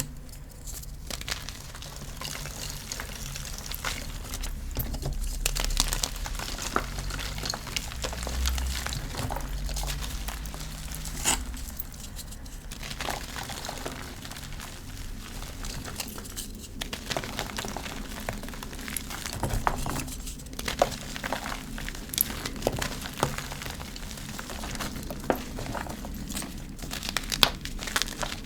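Blocks of gym chalk being crushed and crumbled: a dense, continuous crisp crunching and crackling, with a few sharper snaps scattered through.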